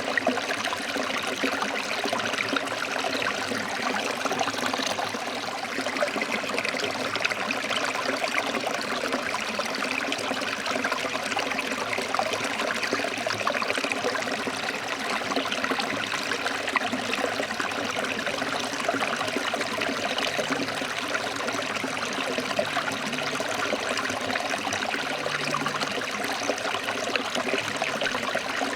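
A forest stream flowing and splashing over rocks, a steady, continuous rush of water.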